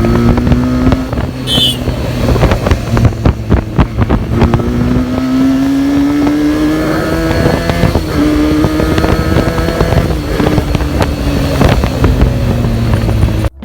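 Benelli TNT 300's 300 cc parallel-twin engine through its stock exhaust, running while the bike is ridden. The engine note climbs steadily from about four seconds in, drops at a gear change just before the middle, then eases off slowly. Wind buffets the microphone throughout.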